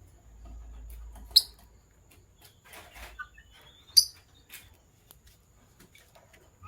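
Lovebirds giving two sharp, high-pitched chirps, one about a second and a half in and another about four seconds in, with faint scattered clicks and rustles between them.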